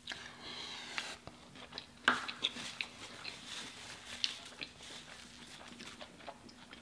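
Close-miked eating sounds: a bite into a cheeseburger, then soft wet chewing with many small mouth clicks. A sharp click about two seconds in is the loudest sound.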